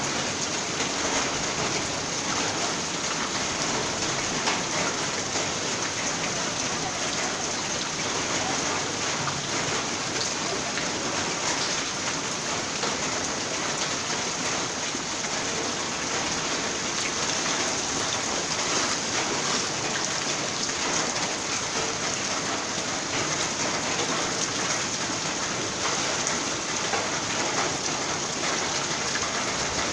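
Heavy rain falling steadily, an even hiss of many drops striking the ground.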